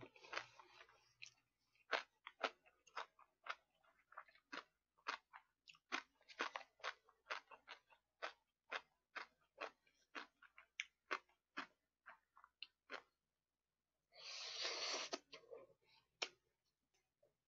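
Close-miked mukbang eating: wet mouth smacks and clicks of chewing, two or three a second, with a short silent pause and then a rushing breath-like noise about a second long.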